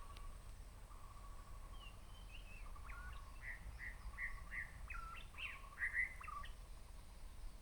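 A wild songbird singing: a low, even trill at first, then a phrase of about half a dozen repeated clear notes with quick upward slurs, faint against low background rumble.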